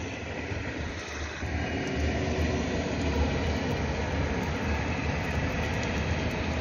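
High-speed train running past on a distant elevated line: a steady rumble and rushing noise that swells about a second and a half in and then holds.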